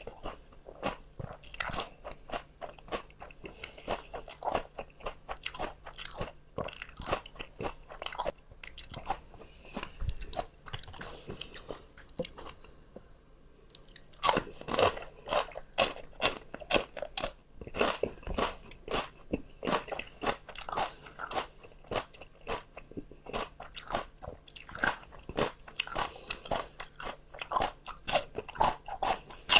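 Close-up chewing and biting of crunchy raw vegetables: a dense run of crisp, wet crunches. The crunching softens briefly a little before halfway, then returns louder and sharper with fresh bites.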